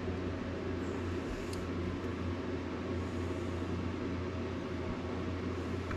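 Steady low electrical hum with an even hiss underneath, and a couple of faint light clicks.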